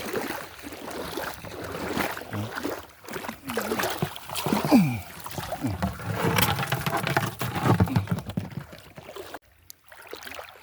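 Water sloshing and splashing with scattered knocks, and brief faint voices.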